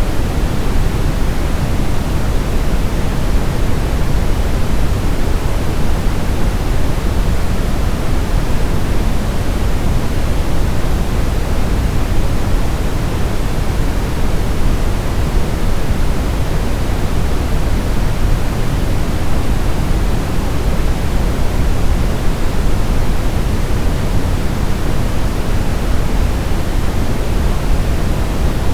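Steady white noise from a baby sleep-aid track: an even, unchanging rushing hiss, heavier in the low end than in the highs.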